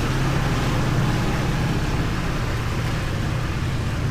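Riding on a motorbike in city traffic: a steady engine hum with rushing road and wind noise.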